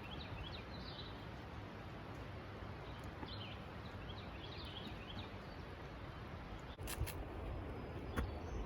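Birds chirping in two short bursts of quick, high chirps, over a steady outdoor background hiss. Near the end the background changes abruptly and a few sharp clicks or knocks follow.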